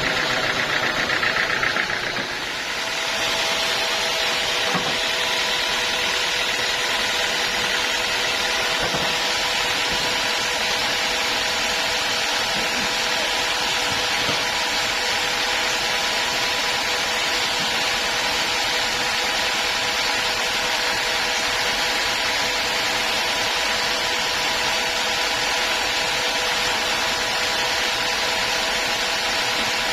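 Sawmill saw running through a teak log: a steady machine drone with a few held tones under a continuous sawing hiss, which dips briefly and then settles louder and fuller about two and a half seconds in.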